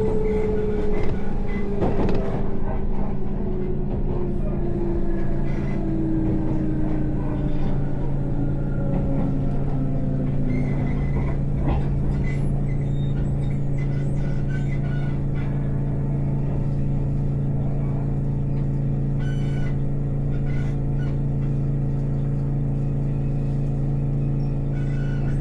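Electric train heard from inside the carriage: the motor whine falls steadily in pitch over the first ten seconds or so as the train slows, then gives way to a steady low hum with a few scattered clicks.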